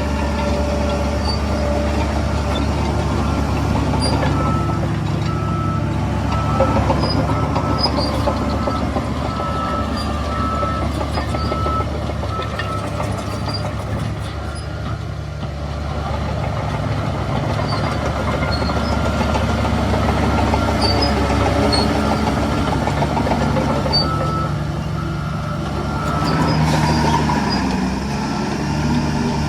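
Heavy diesel engines of earthmoving machinery running, with a reversing alarm beeping at an even rhythm through most of it and stopping near the end.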